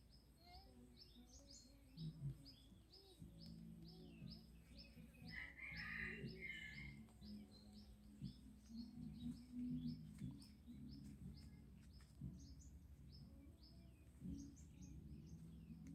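Faint bird chirps repeating quickly, about three a second, with a louder, lower burst of calls around six seconds in and a faint low hum underneath.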